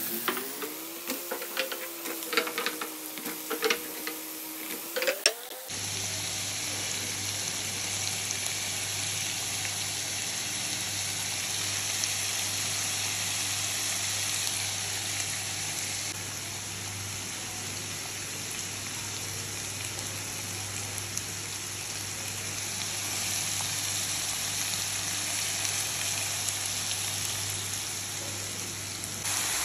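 Minced meat and potato cubes frying in a pan with a steady sizzle. A few sharp clatters and clicks come in the first several seconds, when the potatoes have just been added.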